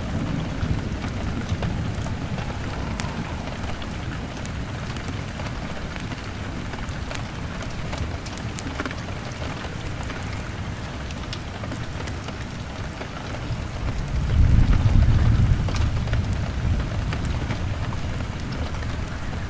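Steady rain beating on a window pane, with scattered sharp crackles from a log fire. About two-thirds of the way through, a low rumble swells and fades over a few seconds.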